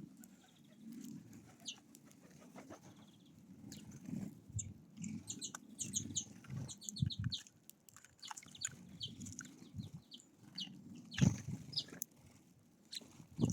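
Small songbirds at a feeder giving short high chirps, thickest in the middle, over low wing flutters and soft knocks. There is one loud thump with a flurry of wings about 11 seconds in.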